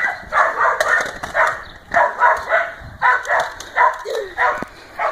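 An animal calling repeatedly in short, loud calls, about three a second in irregular runs.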